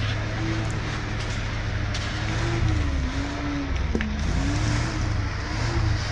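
An engine running steadily, its pitch sagging and recovering several times as the load changes, with a couple of sharp clicks.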